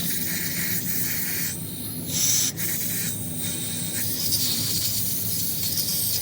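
Hissing spray noise that grows stronger twice, over a steady low hum.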